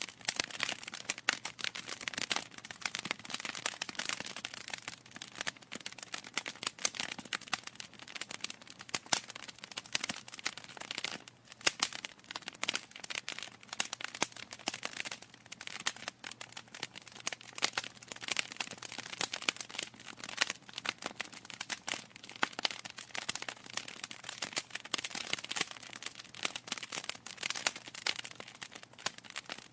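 Wood fire burning in a fireplace, the logs crackling with dense, irregular pops and snaps, with a brief lull about eleven seconds in.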